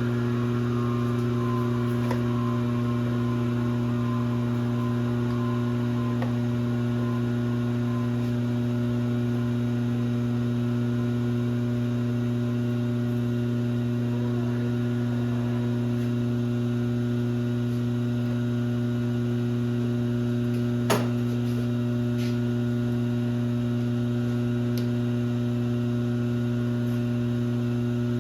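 Steady electrical hum of a running shop machine, switched on just before, with a faint falling whine in the first few seconds and a single sharp click about 21 seconds in.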